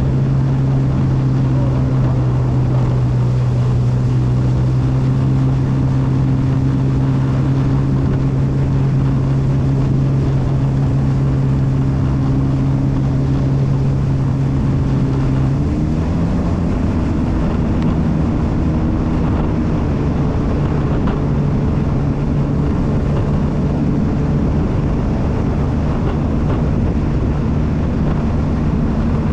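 Jet ski engine running steadily under way, its pitch stepping up slightly about halfway through.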